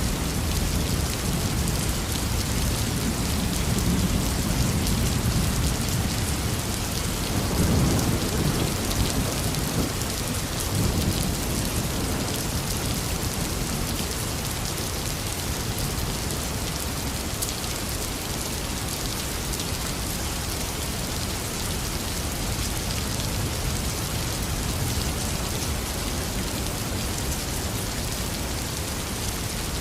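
Heavy rain falling steadily as a dense hiss. Rolling thunder rumbles low underneath, swells once about a quarter of the way in, and fades out before the halfway point.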